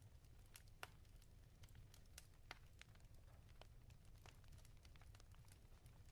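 Wood fire crackling faintly in a fireplace: scattered sharp pops and snaps over a low steady rumble, the loudest pops about a second in and again about two and a half seconds in.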